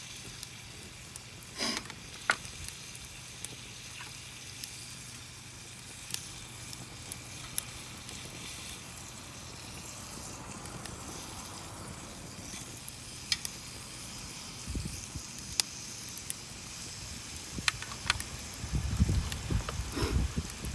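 Wood campfire crackling: scattered sharp pops and snaps at irregular intervals over a steady faint hiss. A low rumbling comes in near the end.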